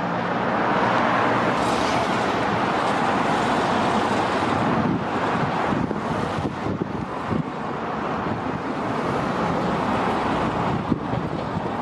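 Road traffic noise: a steady rush of car tyres and engines, a little louder in the first couple of seconds.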